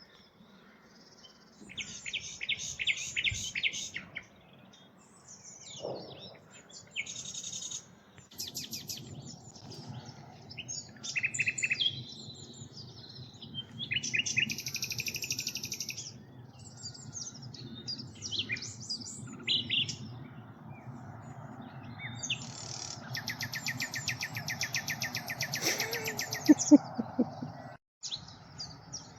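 Common nightingale singing: phrases of rapid repeated notes, separated by short pauses. A faint low steady rumble lies underneath.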